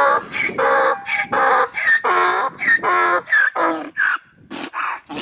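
Chicken clucking and cackling in a quick run of short calls, about two a second, with a brief lull near the end.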